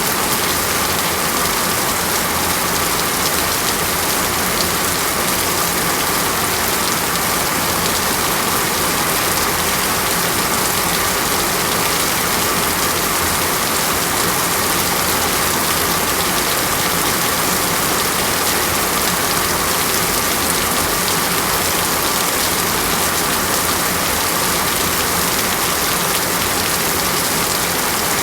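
Steady heavy rain falling on foliage, an even, unbroken hiss of drops with no distinct events.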